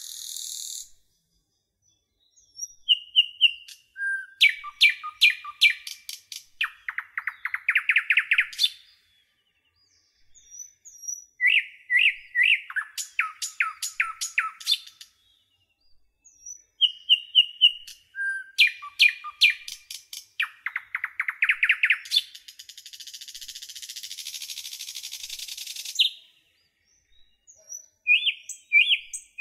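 A songbird sings the same phrase of chirps, trills and buzzy notes over and over, about every seven seconds, with short pauses between. Near the end a steady hiss runs for a few seconds.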